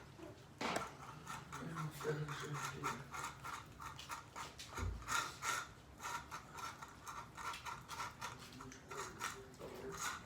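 Cats eating dry food: a rapid run of small crunching clicks, about three to four a second, with a single low thump about five seconds in.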